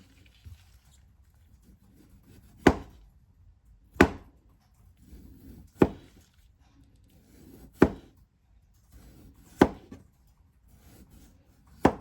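Knife chopping down onto a cutting board: six slow, separate sharp knocks about two seconds apart, with softer sounds between some of them.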